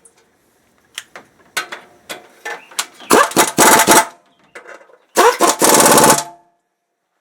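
Ingersoll Rand 3/8-inch air impact wrench on rusty exhaust bolts: a few short blips, then two hammering bursts of about a second each.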